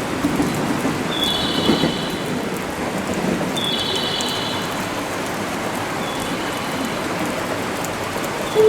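Electric train rolling through the platform with a steady rushing noise, its wheels giving two short high-pitched squeals about one and three and a half seconds in, with fainter squeals later. Right at the end a station chime of rising notes starts.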